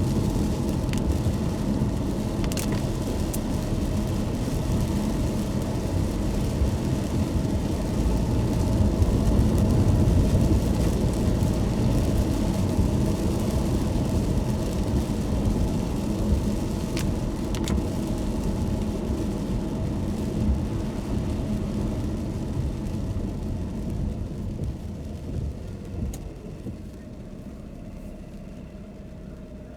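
Car driving on a rain-wet road: a steady low rumble of tyres and engine with a faint hiss and a few brief clicks, growing quieter near the end.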